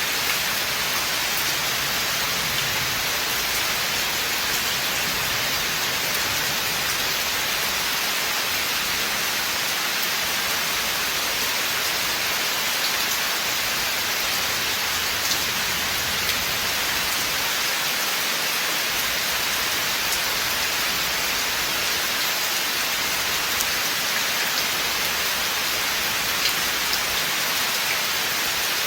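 Steady rain falling in a forest, an even hiss with faint scattered drip ticks.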